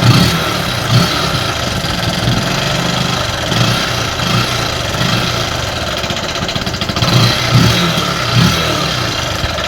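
Bajaj Pulsar 135's single-cylinder four-valve engine idling, with a few brief throttle blips, and a mechanical clatter that a newly fitted timing-chain tensioner has not cured. The mechanic traces the noise to the cylinder head: the rocker arms and rocker shaft.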